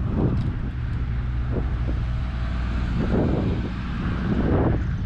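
Diesel pickup truck engine idling steadily, with a few louder rushes of wind on the microphone.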